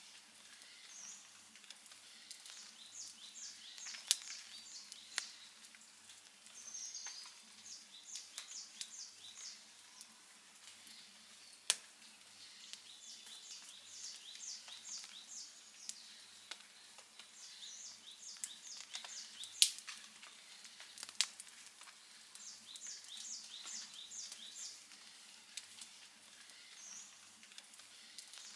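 Outdoor wood fire crackling softly, with sharp pops now and then, the loudest about two-thirds of the way through. Behind it, a run of five or six quick high chirps comes back every few seconds.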